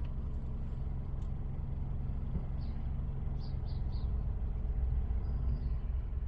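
Toyota four-cylinder petrol engine idling steadily with new ignition coils fitted, a low, even rumble.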